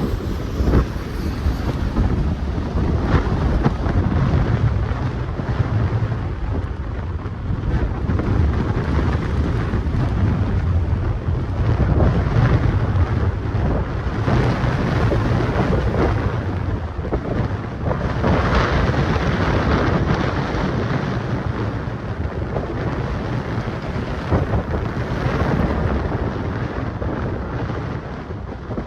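Strong, gusty wind buffeting the microphone: a loud low rumble that swells and eases every few seconds, with gusts estimated at about 40 mph.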